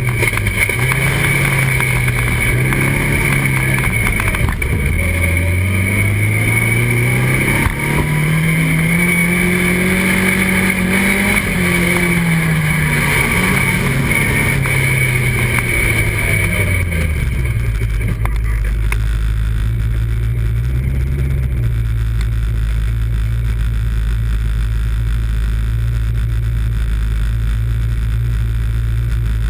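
2-litre autocross car engine heard from inside the cockpit under racing load, its revs climbing and falling repeatedly. After about seventeen seconds it settles into a steady lower drone.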